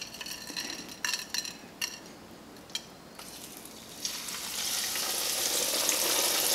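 A few light clicks and crackles as crushed potato-chip crumbs drop onto a plate, then a large chip-coated chicken cutlet is lowered into hot frying oil at about 370 °F, and a sizzle starts about four seconds in and swells to a steady loud frying hiss.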